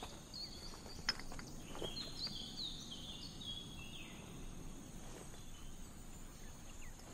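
Faint outdoor ambience of small birds chirping: a run of short, high chirps that slide down in pitch over the first few seconds. There is a light click about a second in.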